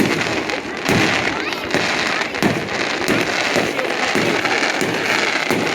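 Fireworks display: shells bursting in quick succession, a bang roughly every half second to second, over continuous noise.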